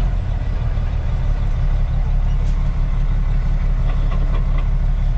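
Truck engine idling steadily at a low, even pitch, with a few faint clicks about four seconds in.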